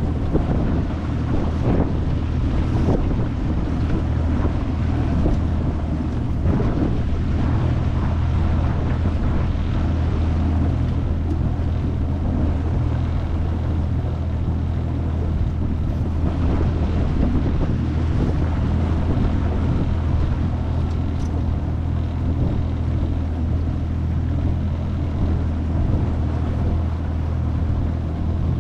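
25 hp Mercury four-stroke outboard running at a steady speed, pushing an aluminium jon boat along, with wind buffeting the microphone and water rushing past the hull.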